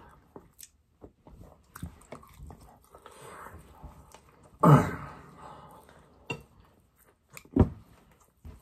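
A person chewing and eating close to the microphone, with small wet clicks and smacks. There is a loud, short throat sound about halfway through, like a cough or throat-clear, and a second one near the end.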